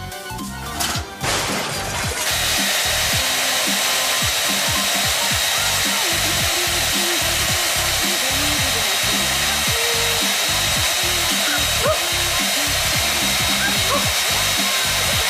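A loud, steady rushing noise with a faint high whistle, starting about two seconds in, over background music with a steady beat.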